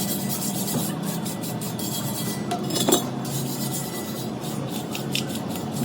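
Metal clinking and scraping on a steel truck rim being worked by hand, with irregular taps and one sharper clink about three seconds in, over a steady low hum.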